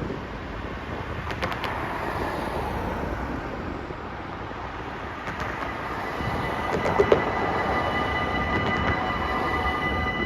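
Stadler GTW diesel railcar running past on a single track, with sharp wheel clicks over rail joints a few times. A steady high whine joins about six seconds in.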